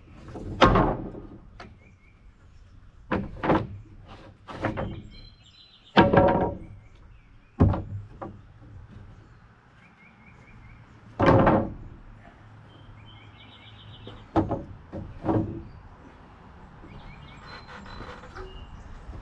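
A series of about ten irregularly spaced heavy thuds and bangs, each with a short ring after it, with birds chirping in the gaps.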